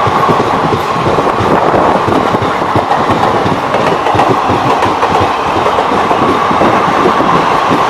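Indian Railways passenger train running past at speed, its wheels clattering rapidly over the rail joints, with a steady high-pitched whine running through it.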